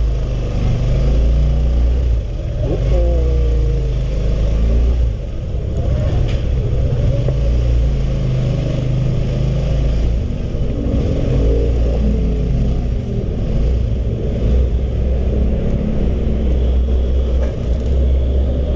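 Honda CB150R single-cylinder motorcycle running under way on the road, under a heavy, steady low rumble.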